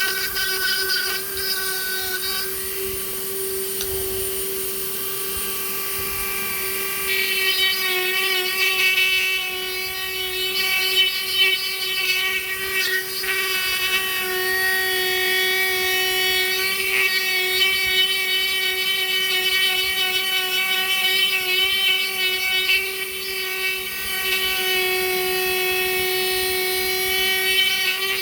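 Small woodworking power tool running with a steady high whine. From about 7 seconds in, a wavering, rougher layer rides on top as it works the wood.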